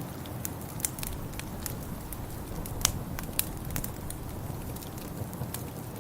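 Wood fire crackling in a fireplace: irregular sharp pops and snaps, the loudest about three seconds in, over a steady low rumble.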